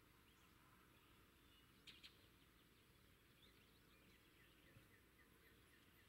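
Faint outdoor ambience with distant birds chirping in short scattered notes, and two quick sharp sounds about two seconds in.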